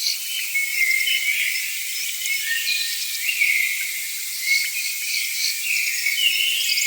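Tropical rainforest insect chorus: a dense, steady, high-pitched buzzing and chirring, with short high chirps over it.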